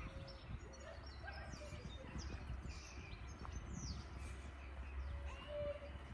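Birds chirping and calling, with short high chirps and whistles scattered throughout, over a steady low rumble.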